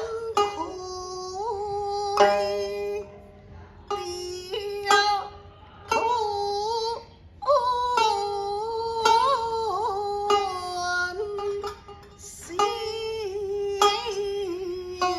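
Nanguan (nanyin) singing by a woman: long drawn-out notes with slow slides and small ornamental bends, over sparse plucked-string accompaniment.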